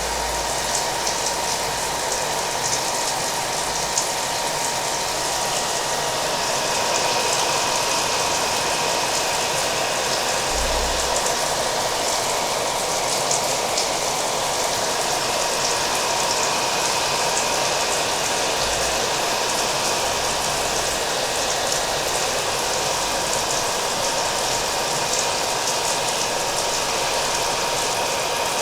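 Hair dryer running steadily with a thin, even whine, mixed with the steady patter of rain.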